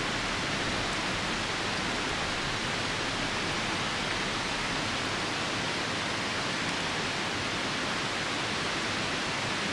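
Steady rushing of a nearby river mixed with falling rain, an even, unbroken wash of noise.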